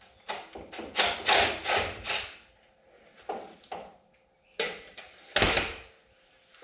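Metal clunks and scrapes as a starter motor is worked loose and wrestled out from under a car. There is a cluster of knocks about a second in and a heavier clunk near the end.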